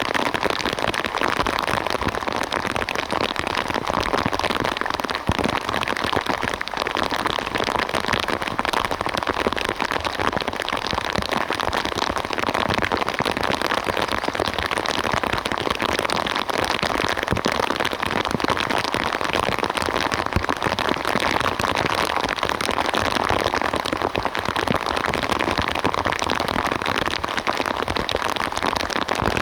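Rain falling steadily: a dense, even hiss made of countless fine drop ticks.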